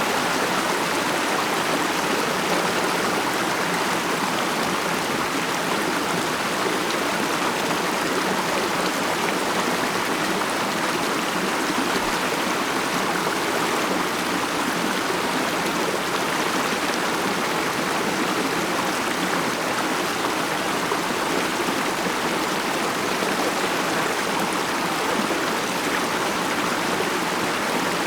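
A mountain stream flowing steadily over rocks, an even rushing murmur with no pauses.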